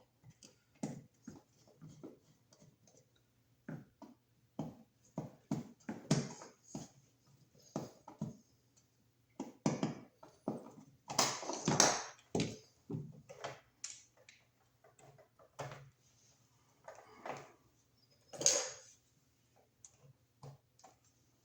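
Hand work on an electrical receptacle: irregular clicks, taps and light scrapes from wires, a screwdriver and the outlet being handled, with a longer scraping rustle about eleven seconds in and again near the end. A faint steady low hum runs underneath.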